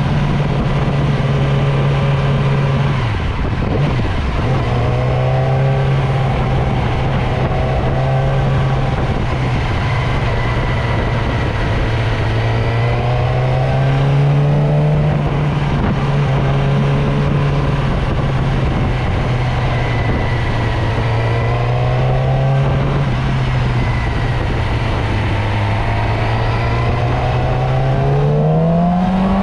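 Motorcycle engine running while riding, its note rising and falling with the throttle. It dips briefly a few seconds in and revs up steeply near the end.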